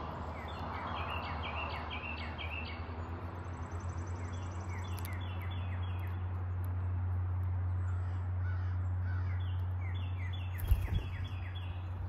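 Birds calling outdoors in three bouts of short, quickly repeated high notes, over a steady low hum. A single sharp thump sounds near the end.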